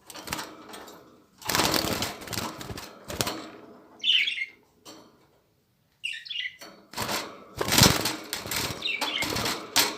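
Young budgerigars flapping their wings against the cage in several short flurries, with brief high chirps in between: the birds are startled by the phone held close to the cage.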